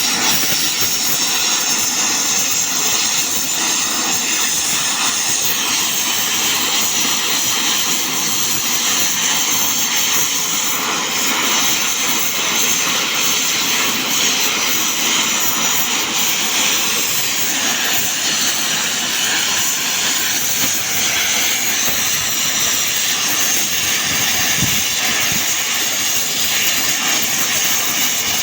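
Gas brazing torch flame hissing steadily and loudly while tungsten carbide is brazed: a constant rushing noise, strongest in the high range.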